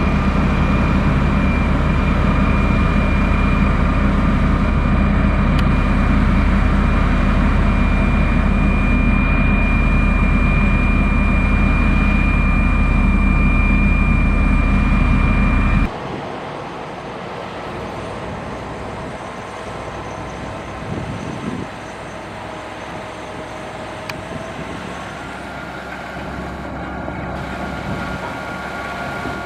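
Diesel engine of a motor grader running steadily, a heavy low hum with a steady high whine over it. About halfway through the sound cuts off suddenly to a quieter, steady engine hum.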